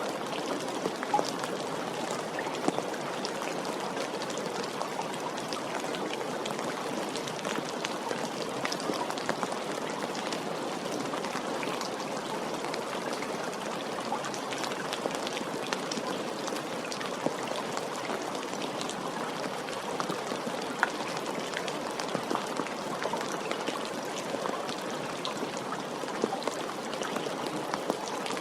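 Steady gentle rain falling, an even hiss with many separate drops ticking and pattering on a surface.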